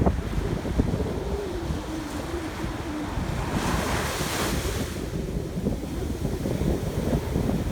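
Sea surf washing on a beach, with wind buffeting the microphone in a steady low rumble. A wave rushes in with a swell of hiss about halfway through.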